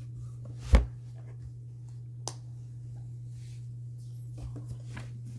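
A single sharp tap about a second in, then a fainter click a little past two seconds, over a steady low hum.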